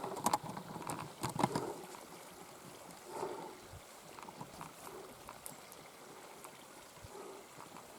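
Faint running water of a small moorland stream, with a few soft knocks and rustles in the first two seconds.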